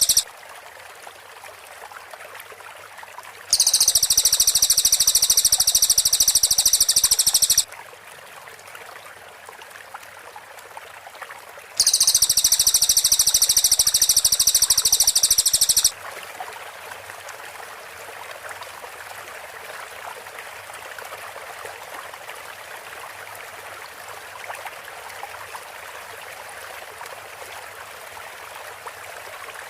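Cililin bird singing two bursts of rapid-fire, very high trilled song, each about four seconds long, starting about three and a half seconds in and about twelve seconds in. Steady background hiss fills the gaps and the second half.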